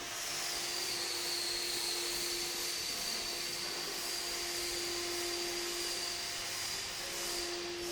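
Laboratory furnace running: a steady machine hum with a high, constant whine over an even hiss.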